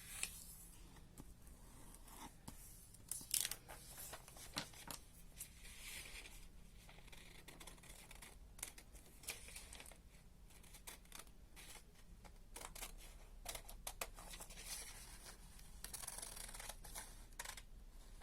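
Sheets of coloured paper being handled, folded and cut with scissors: scattered soft rustles, creases and snips, with one sharper click about three seconds in.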